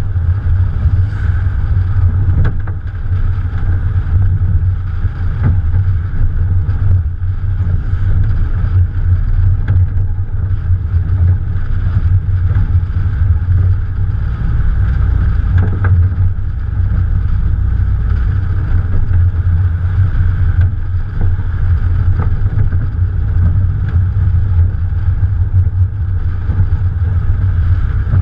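Morgan Plus 4 on the move, its Ford 2.0-litre engine running steadily under a constant low rumble of wind and road noise on a camera mounted on the bonnet.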